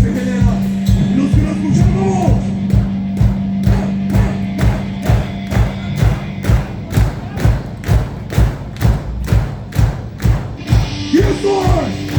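Live rock band playing: a steady, heavy drum beat of about two hits a second under a held low note that cuts out a little past halfway, with a shouted voice near the start and again near the end.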